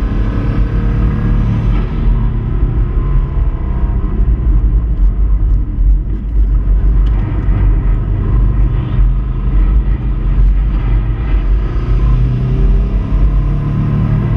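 Subaru Impreza 2.5RS 2.5-litre flat-four engine running hard on track. It eases off about two seconds in and pulls strongly again near the end.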